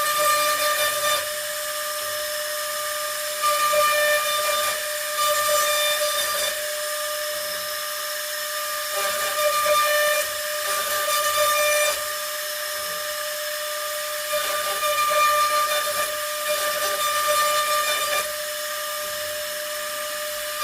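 CNC router spindle running with a steady high whine, its cutting noise growing louder in stretches of one to three seconds as the bit cuts into the panel.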